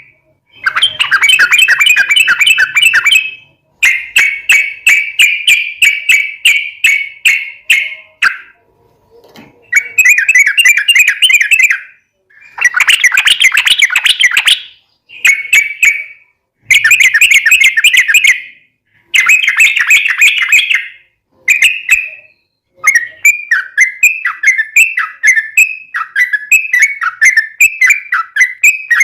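Yellow-vented bulbul singing in long, rapid chattering phrases (the 'ropel panjang' style). The phrases last a second to four seconds with short pauses between them, and near the end they turn into a run of quick, falling slurred notes.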